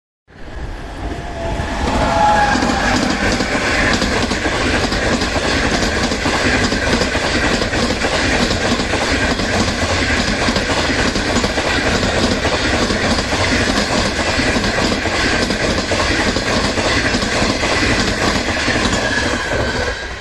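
A train passing close by on the main line, its wheels rumbling and clicking over the rails in a steady, loud rush that cuts in suddenly and lasts throughout.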